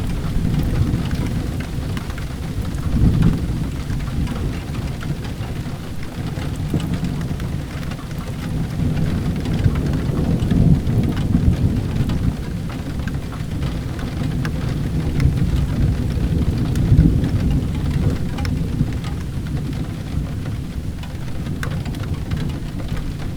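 Steady rain with low rolling thunder that swells several times, over scattered small crackles from a wood fire.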